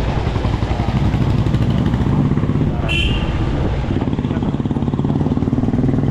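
Motorcycle engine running under the rider while riding through traffic, its pitch rising and falling with the throttle. A short high beep sounds about three seconds in.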